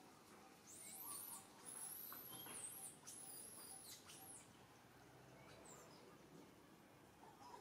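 A bird singing faintly: a run of very high, quick chirps and looping whistles in the first half, over a faint outdoor hiss.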